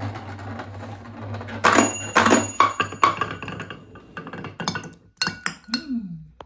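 Two balls running down a wooden marble-run slider with water flowing in it, knocking and clinking against the wood in a string of sharp clicks from about two seconds in, coming quicker near the end.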